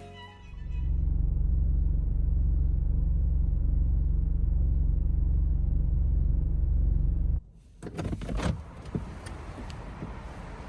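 A loud, steady low rumble that cuts off abruptly about seven seconds in, followed by a few light clicks and knocks.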